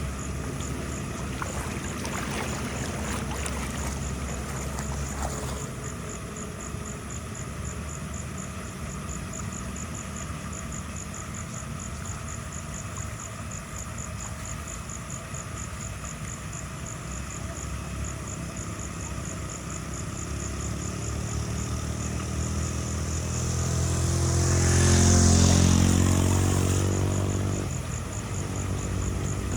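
An engine running steadily, with a louder engine sound that swells, peaks about 25 seconds in and fades away a couple of seconds later. A fast, even ticking sits high above it throughout.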